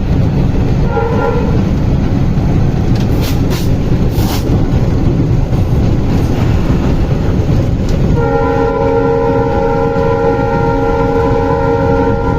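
Indian Railways locomotive-hauled train running with a heavy steady rumble and a few sharp clicks from the track. The locomotive horn gives a short blast about a second in, then sounds one long chord-like blast from about two-thirds of the way through.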